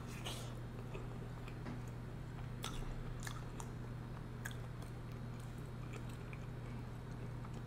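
Close-miked chewing of a mouthful of seafood boil: irregular soft wet clicks and smacks of the mouth, over a steady low hum.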